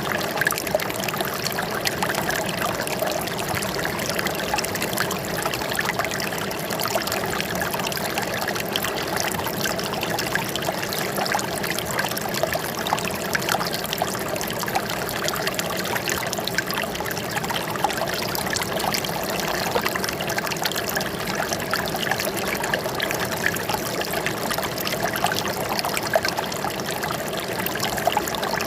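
Running water trickling and splashing steadily, with a constant fine spatter and no pauses.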